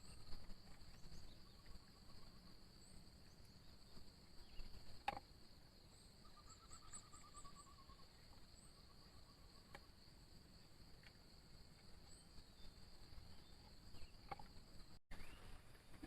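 Faint, steady high-pitched insect chorus from the forest at night. A short trill sounds twice, the second one falling in pitch, and there are a few soft clicks.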